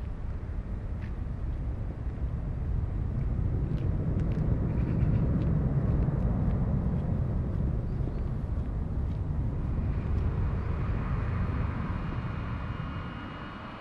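Boeing C-32 (757-200) Pratt & Whitney PW2000 turbofan engines heard outdoors as a deep rumble that swells and then eases off. Near the end, a layered high engine whine comes in as the rumble fades.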